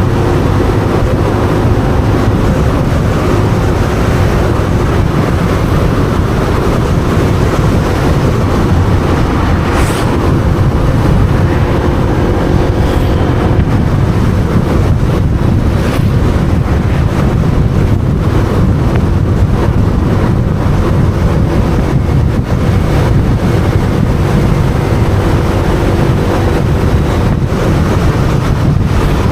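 Wind rushing over the microphone of a moving motorbike, loud and steady, with the motorbike's engine running underneath.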